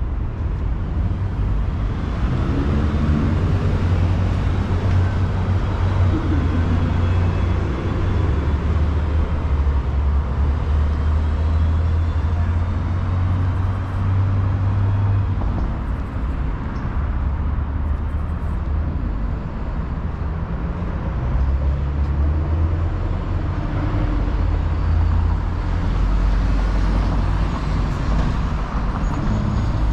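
City street traffic: a steady low rumble of passing cars and buses, with general urban background noise.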